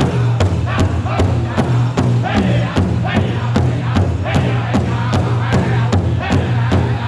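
Powwow drum group singing a high chant over a steady, even beat on a large drum, about two and a half beats a second.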